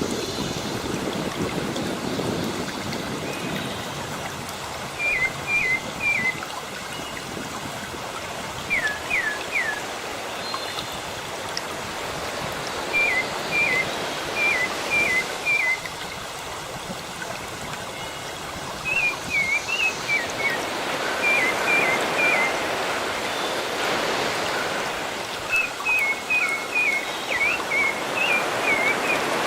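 Sea surf washing with a steady rush, over which a songbird repeats short, sharp chirps in quick groups of three or four, several times over.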